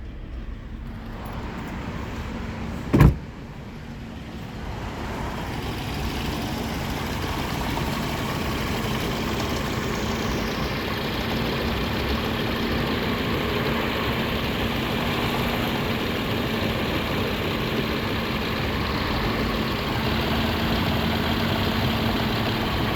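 Suzuki Grand Vitara engine idling steadily, growing louder over a few seconds and then holding even. A single sharp knock sounds about three seconds in.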